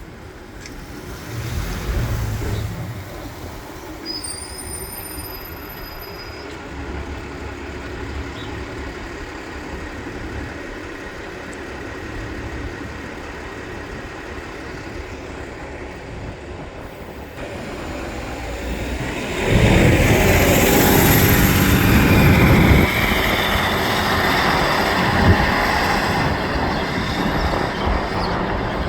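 New Flyer Xcelsior XD60 articulated diesel bus running, its engine and drivetrain sound growing much louder about two-thirds of the way through as it accelerates away, with a thin high whine over it.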